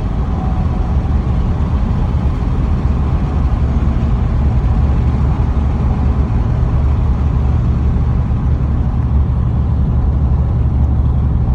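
2004 Ford Mustang GT's 4.6-litre V8 with a straight-piped exhaust, running steadily with a low drone.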